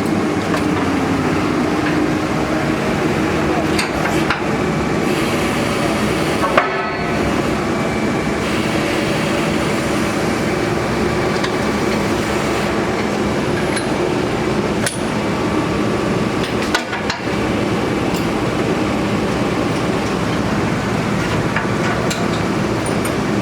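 A borehole drilling rig's engine runs steadily while drill rods and bits are pulled from the hole, with a few sharp metal clanks, one about six and a half seconds in and another near seventeen seconds.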